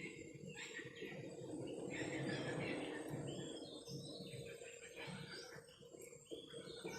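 Small birds chirping in many short, overlapping calls, over a faint steady low hum and a rumbling background noise that swells a couple of seconds in.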